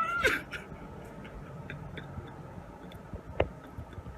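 Faint, scattered light clicks and ticks over a quiet background, with one sharper click about three and a half seconds in, after a brief voice-like sound at the very start.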